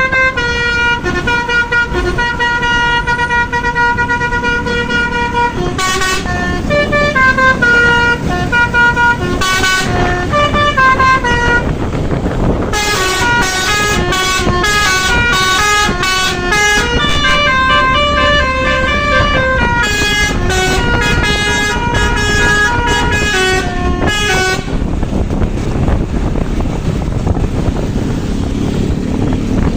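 Indonesian bus basuri (telolet) musical air horn playing a long run of tunes, its notes stepping up and down with a few brief breaks. It stops about 25 seconds in, leaving the rumble of engine and road noise.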